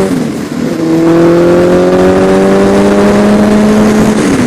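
Honda CBR1000RR Fireblade's inline-four engine accelerating hard through the gears: the revs drop at an upshift just after the start, climb steadily for about three seconds, then drop again at the next shift near the end.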